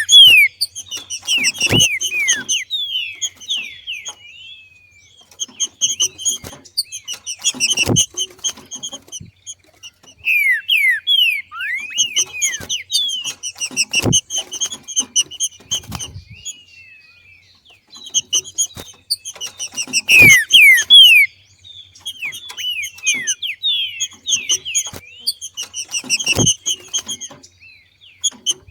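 Green-winged saltator (trinca-ferro) giving its macheado call: bouts of rapid chattering notes mixed with quick downward-sliding notes, repeated about every six seconds. Each bout has one short thump in it.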